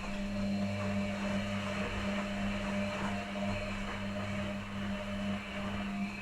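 Electrolux and Arctic washing machines running together in the wash phase of their quick 30 °C programmes: a steady motor hum with a continuous churning noise over it.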